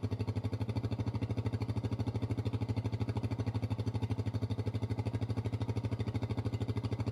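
125cc dirt bike engine idling steadily, with a fast, even pulsing beat.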